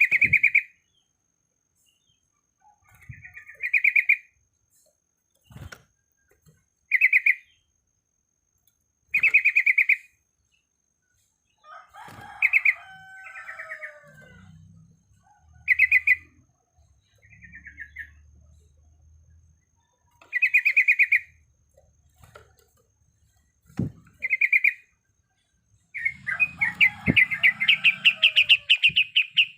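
Yellow-vented bulbul (trucukan) singing short, rapid, bubbling phrases every few seconds, with a longer, faster rolling run near the end.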